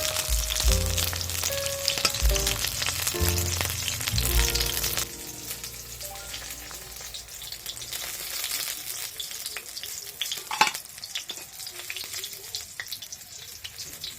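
Food sizzling in hot oil in a cooking pan while being stirred. About five seconds in, the sizzle drops off sharply, leaving quieter scattered clicks and scrapes.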